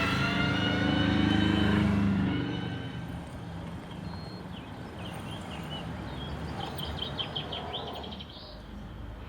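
A vehicle goes by, its whine falling slightly in pitch as it passes, followed by steady traffic noise with a few bird chirps.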